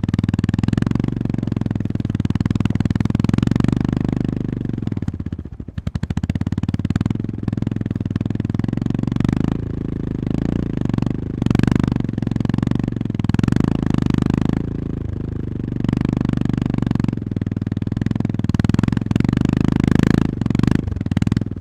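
Honda GB350S air-cooled single-cylinder engine running under changing throttle; the revs drop about five seconds in to slow separate thuds, then pick up again and rise and fall. Scattered knocks and rattles come through over the engine.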